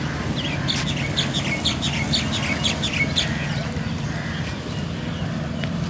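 A bird calling in a quick run of about ten short chirps, each falling in pitch, then stopping, over a steady low rumble.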